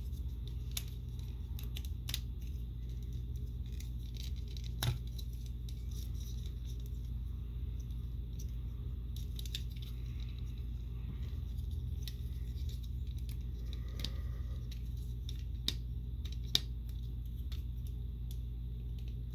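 Plastic parts of a Transformers Siege Skytread action figure clicking and snapping as they are folded and pegged together during its transformation into jet mode: scattered small clicks, a sharper one about five seconds in and two more later on, over a steady low hum.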